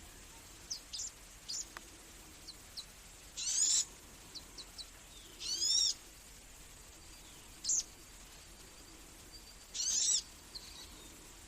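Small birds chirping: scattered short, high chirps, and three louder, longer calls of about half a second each, the first about three seconds in, the second near the middle, the last near the end.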